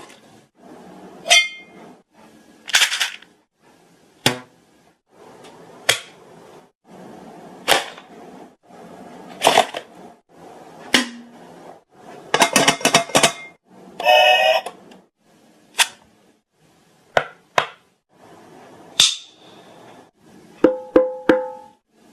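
Mouth-made sound effects: sharp clicks and pops, one every second or two. About twelve seconds in comes a quick rattle of clicks, followed by a short pitched vocal sound.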